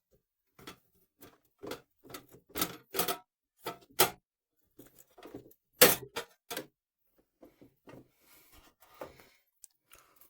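Needle-nose pliers clicking and tapping against metal while working a crimp terminal off a sandwich toaster's thermostat connection: a run of short, irregular clicks, the loudest about six seconds in.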